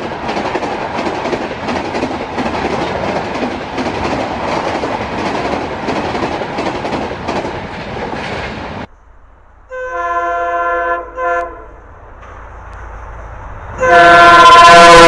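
Passenger coaches rushing past at speed, with a steady rhythmic clatter of wheels over rail joints that cuts off suddenly about nine seconds in. A train's multi-tone horn then sounds twice briefly and quietly, and near the end a much louder horn blast comes as a train approaches.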